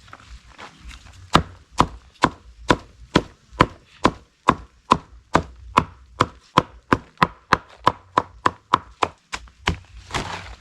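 Steady, rhythmic chopping of a blade striking wood: about twenty sharp strokes, a little over two a second, starting about a second in.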